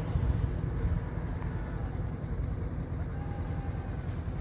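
Strong wind buffeting the camera microphone: a steady low rumble, heaviest in the first second, with faint voices far off.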